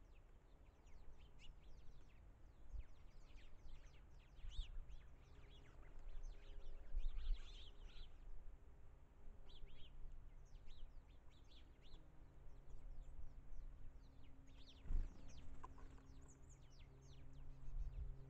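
Small birds calling with many short, high, falling chips scattered throughout, over a low outdoor rumble, with a single thump about 15 seconds in.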